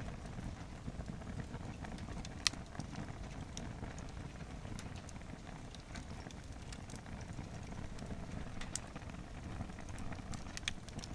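Wood fire blazing in an overloaded campfire stand: crackling with scattered pops over a steady low rumble, one sharp, loud pop about two and a half seconds in.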